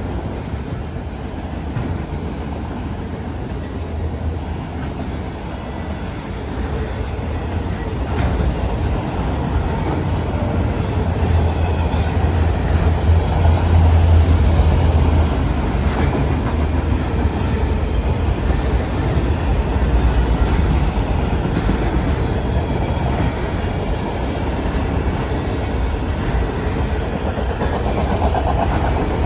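Norfolk Southern manifest freight train's cars rolling past, a steady heavy rumble with wheels clattering over the rails, swelling a little around the middle.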